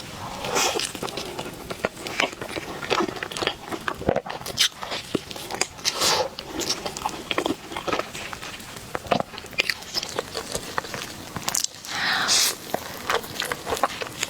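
Close-miked eating of scallion, ham and pork floss balls: irregular bites and chewing with soft crunching and crackling, typical mukbang eating sounds.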